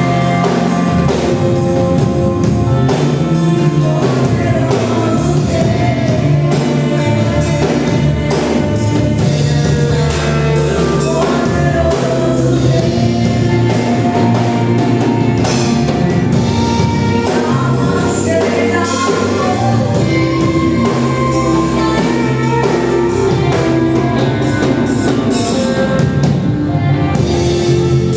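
Live gospel worship music: a church band with drum kit playing steadily, with singing.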